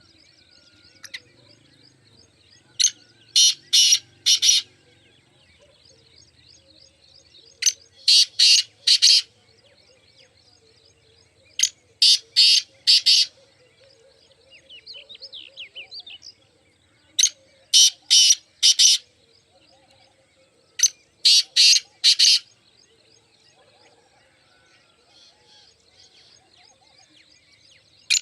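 Black francolin (mushki teetar) calling: five loud bouts of about four harsh, grating notes each, repeated every four to five seconds. Fainter chirping of small birds continues underneath.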